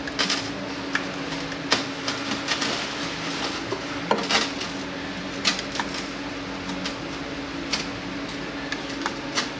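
Irregular metallic clicks and clinks of automatic-transmission parts being handled and worked loose while the clutch piston is freed, over a steady low hum.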